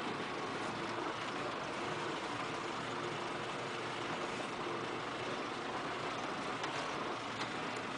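Farm tractor engine running steadily as it drives along, pulling an empty manure spreader, with a constant rush of road and wind noise.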